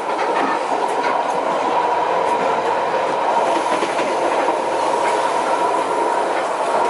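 Northern Explorer passenger train running along the track: a steady noise of wheels on rails, with a faint steady high tone and scattered light clicks.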